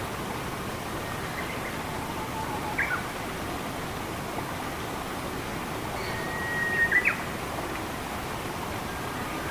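Steady rush of flowing water with a bird calling over it: a brief call about three seconds in, then near seven seconds a held whistle followed by a few quick sharp notes.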